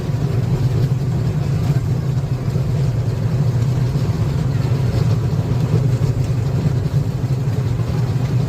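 Engine of a park tourist train running steadily as the train rides along, a low hum.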